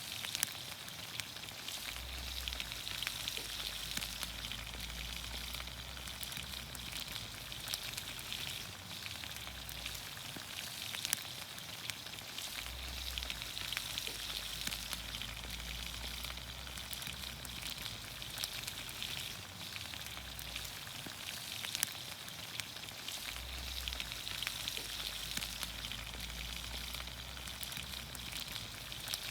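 Green beans, onions, carrots and potatoes sizzling steadily in olive oil over a campfire, with scattered sharp pops and crackles throughout.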